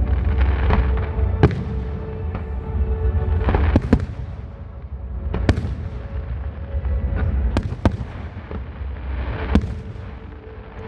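Aerial fireworks shells bursting, about half a dozen sharp bangs at irregular intervals over a low rumble.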